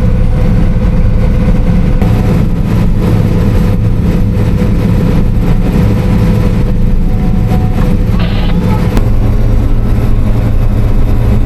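Combine harvester running with a steady, even low drone, heard from inside the cab.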